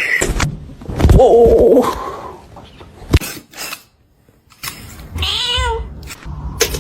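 A domestic cat meowing: a long, wavering meow about a second in and a second, shorter meow near the end. A few sharp knocks come in between.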